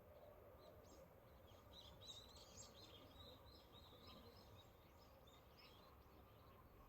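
Near silence: faint outdoor background noise, with a bird twittering quietly in quick chirps for a few seconds in the middle.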